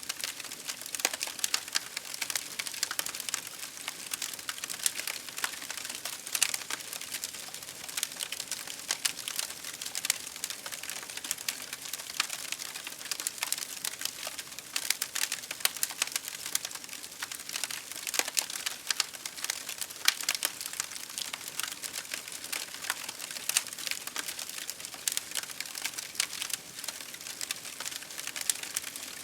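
Campfire crackling, with many irregular sharp pops and snaps over a steady hiss of rain.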